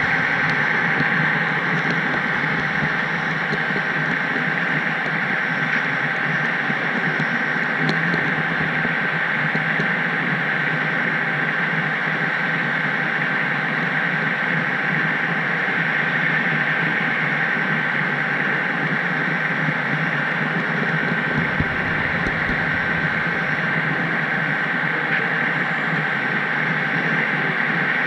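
HO scale model train running along the track, a steady hum with a thin high whine and even rolling noise.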